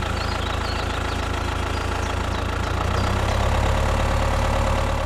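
A mini DIY tractor's engine running steadily with a low, even drone and a thin steady whine above it, getting a little louder about three seconds in.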